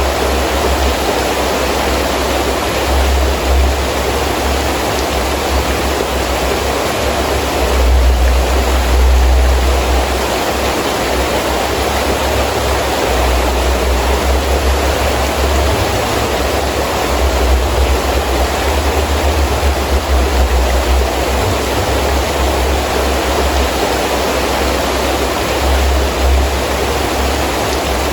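Heavy rain falling steadily, with wind gusting in low rumbles that rise and fall, the strongest about eight to ten seconds in.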